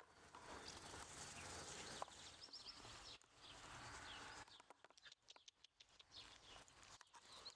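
Faint outdoor background with a few short, high bird chirps.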